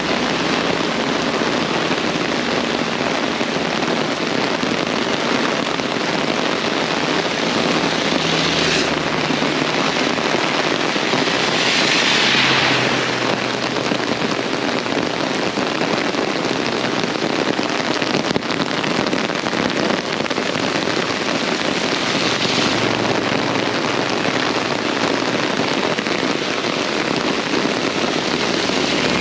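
Very heavy rain pouring down steadily as a dense, even hiss, swelling briefly a few times, most noticeably about twelve seconds in.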